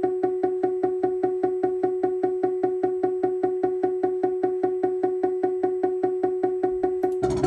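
Synthesizer repeating one note of the same pitch rapidly, about five times a second. Near the end, a loud, buzzy, noisy sound cuts in on top of it.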